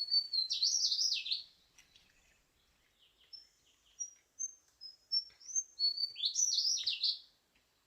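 A songbird singing: two loud, quick warbled phrases of sweeping high notes, one at the start and one about six seconds in, with short high whistled notes between them.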